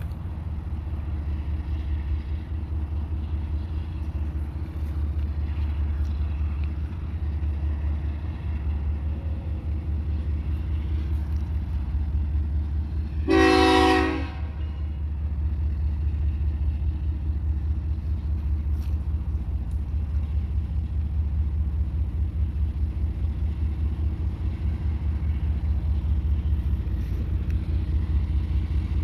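Diesel freight locomotive engines running with a steady low rumble, and about halfway through a single short train horn blast lasting about a second.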